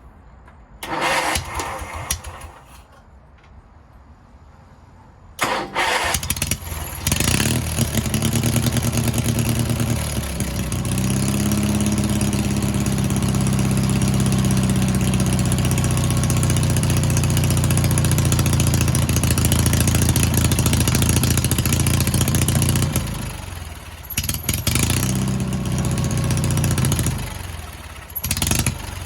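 Sears garden tractor's small gasoline engine cranked briefly, then catching on a second try about five seconds in and running loud and steady. Its speed drops and picks back up a few times near the end.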